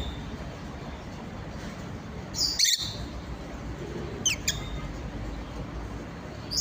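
Pet birds calling: a loud squawk about two and a half seconds in, a couple of short sharp chirps around four seconds, and another squawk at the end.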